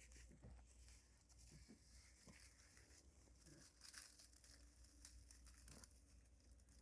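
Near silence with faint, scattered crackling and rustling of dry kindling in a bonfire that has just been lit and is only smoking.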